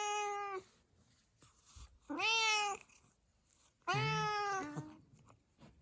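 Tuxedo cat meowing three times, short calls about two seconds apart, each held at a fairly level pitch for around half a second.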